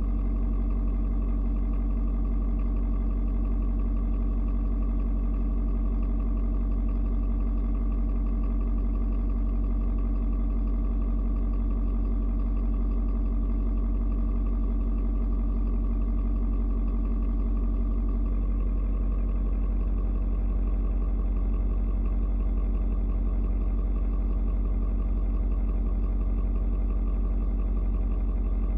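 Ford Super Duty's 6.7-litre Power Stroke V8 turbo diesel idling steadily during its cold-start warm-up at 56 °F.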